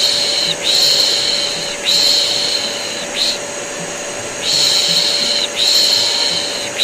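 Steady vacuum cleaner hum with rhythmic 'piş piş' shushing over it, the Turkish baby-soothing shush used as white noise. The shushes come about a second each, in a repeating run of long ones broken by a short one.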